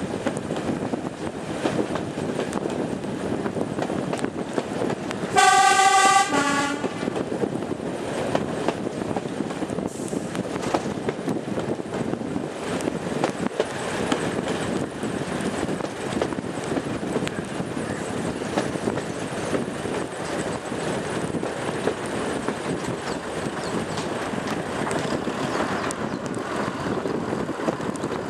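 Class 108 diesel multiple unit running along the line, a steady rumble of engine and wheels on rail. About five seconds in the horn sounds once as a two-tone blast: a longer high note, then a short lower one.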